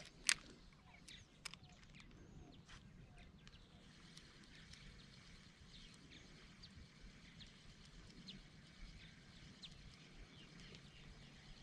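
Faint, scattered bird chirps over near silence, with a sharp click just after the start and a smaller click about a second and a half in.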